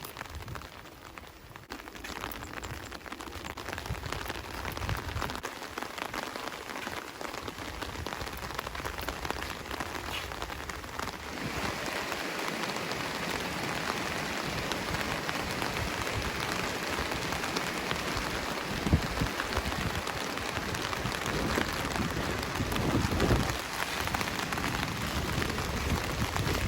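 Steady rain falling and pattering on surfaces, growing louder about halfway through, with a few low thumps near the end.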